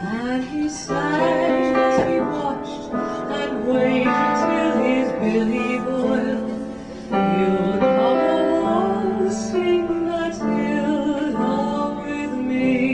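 Music: a woman singing a melody over instrumental accompaniment.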